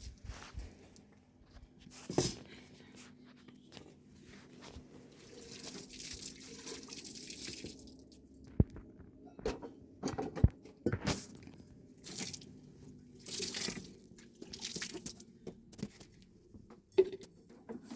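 Water dripping and splashing, with scattered small knocks and clinks over a faint steady hum.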